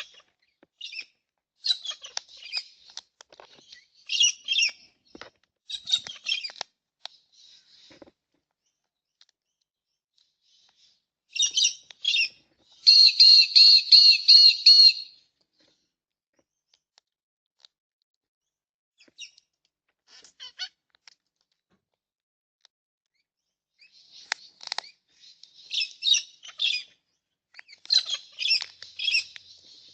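Backyard birds chirping and calling in short, high clusters with quiet gaps, and a louder rapid chattering call lasting about two seconds around the middle.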